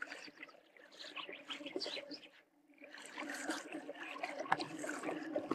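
Faint trickling water with scattered bird calls, growing a little fuller after a few seconds.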